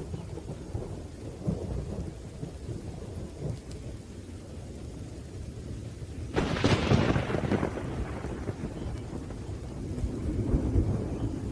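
Steady rain with low rolling thunder rumbling throughout. About six seconds in, a sharp, loud thunderclap cracks and fades over a second or two, and the rumble swells again near the end.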